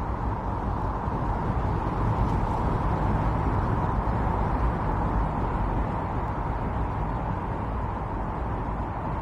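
Intense snowstorm wind blowing steadily, as an even rushing noise that swells a little a few seconds in and eases slightly toward the end.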